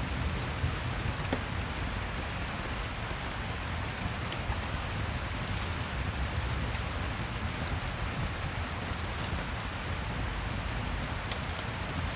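Steady rain, with a few faint sharp ticks scattered through it.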